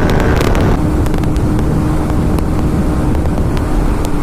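Bajaj NS200 single-cylinder motorcycle running at high speed in sixth gear, a steady engine drone under heavy wind rush on the microphone.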